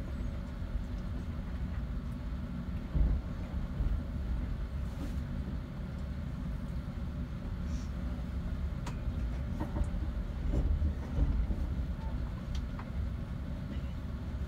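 Passenger train carriage pulling away from the station, heard from inside: a steady low rumble of wheels on the rails, with scattered short clicks and knocks.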